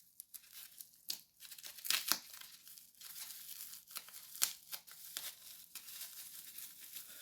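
Packaging crinkling and rustling as it is unwrapped, with irregular small clicks and crackles.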